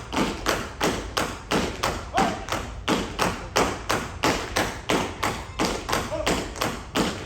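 Live stomp-style stage percussion: heavy struck beats and taps at a steady pulse of about three a second, each hit sharp with a short ring.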